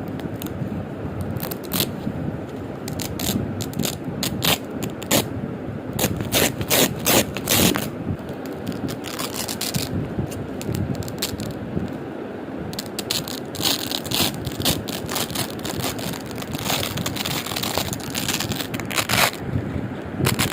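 Velcro hook-and-loop strips being peeled apart again and again, a crunchy crackling rip that comes in repeated bursts.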